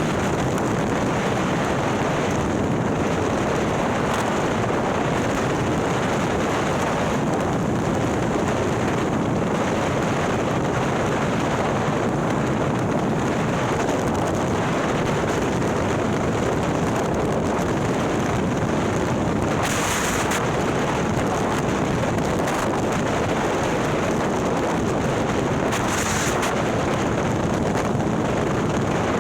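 Steady wind rush over the microphone at riding speed, with a Harley-Davidson touring bike's 130ci Milwaukee-Eight V-twin running underneath. Two brief hissing swells come about two-thirds of the way through and near the end.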